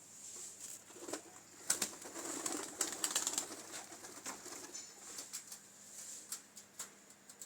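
Pigeons cooing in their coop, with sharp clicks and rustling from the birds moving about, busiest between about one and four seconds in.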